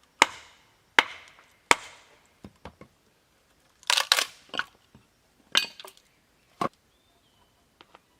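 Wood being chopped with a hand tool: three sharp, ringing blows in an even rhythm, about one every three-quarters of a second, then a few irregular cracks and knocks.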